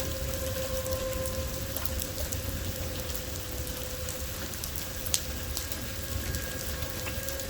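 Rain falling steadily in a thunderstorm, drops pattering with a low rumble underneath and a steady faint tone, and one sharper tap about five seconds in.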